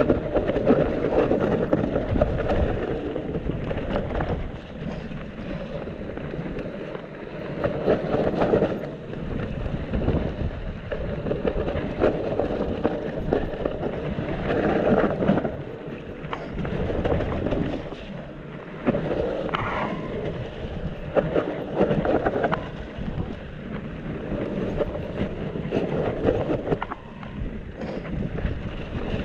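Mountain bike descending a wet, muddy trail, heard from a body-mounted camera: wind buffets the microphone in surges while the tyres roll through mud and the bike knocks and rattles over bumps.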